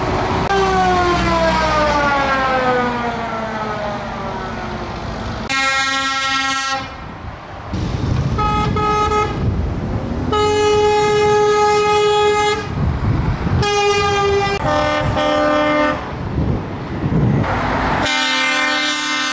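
Truck air horns sounding repeatedly as trucks drive past: the first long blast drops in pitch as the truck goes by, then a string of separate horn blasts of a second or two each, some sounding several notes together, over the trucks' engines.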